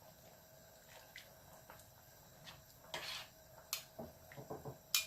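Kitchen handling sounds while cooking pasta: scattered light clicks and knocks, a brief rustle about three seconds in, and a quick run of small knocks near the end.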